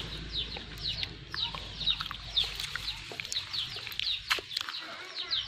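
Small birds chirping: many short, high peeps that fall in pitch, coming irregularly, with a few sharp clicks among them.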